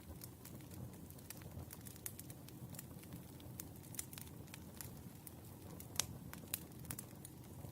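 Wood fire burning with a steady low rumble and many sharp crackles and pops, the loudest pop about six seconds in.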